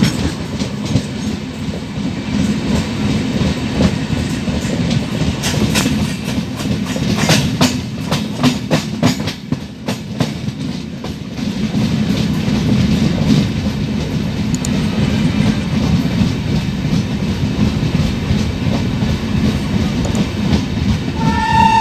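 Passenger express train running slowly through a junction, heard from inside a coach: a steady rumble of wheels on rail, with a run of sharp clickety-clack clicks from the wheels crossing rail joints partway through. A train horn starts sounding at the very end.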